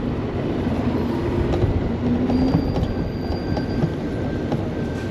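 Riding noise from an Engwe Engine Pro e-bike on knobbly off-road tyres: a steady rumble with scattered knocks and rattles. A faint steady whine comes in about three seconds in.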